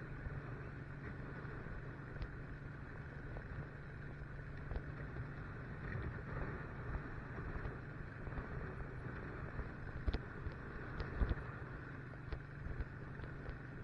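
Motorcycle engine running at a steady pace while riding, a constant low drone with road noise, and a few short knocks about ten and eleven seconds in.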